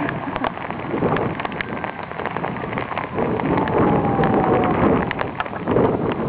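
Heavy rain during a thunderstorm: a steady wash of rain with many individual drops striking a surface in sharp clicks.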